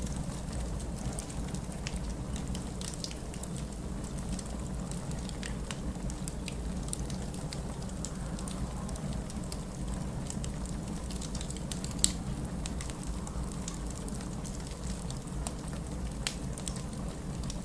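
Wood fire crackling in a fireplace: scattered small pops and ticks, with one sharper pop about twelve seconds in, over a steady low rumble.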